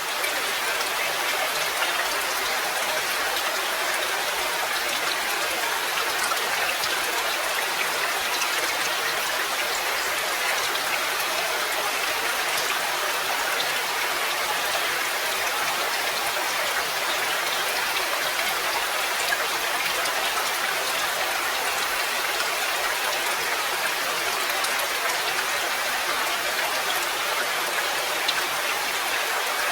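Steady rain falling, an even dense patter of drops with little low rumble.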